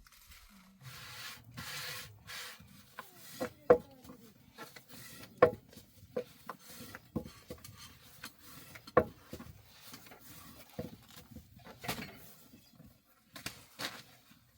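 Irregular knocks, taps and scraping from handling bread-making utensils, with a few sharper strikes that leave a brief metallic ring.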